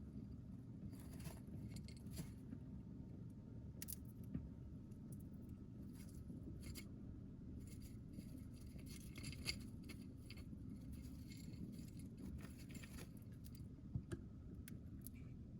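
Sea heard from the shore: a steady low rumble with faint, scattered crackles and a few small clicks.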